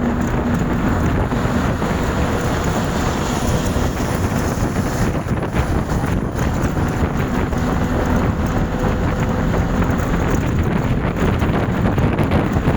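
Wind buffeting the microphone, a loud steady rushing noise, with a faint low hum that fades in and out.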